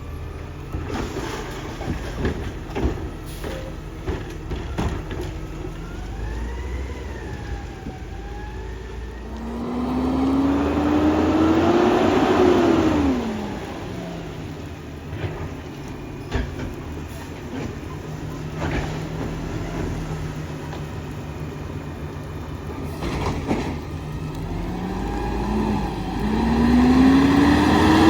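Garbage truck engine running, with knocks and clatter throughout. The engine revs up and back down twice, once about ten seconds in and again near the end, louder each time it revs.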